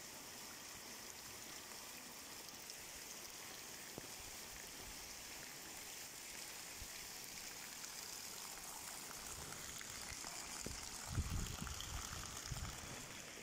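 Steady rain and runoff water streaming along a muddy street, an even hiss. Near the end, a few low thumps stand out above it.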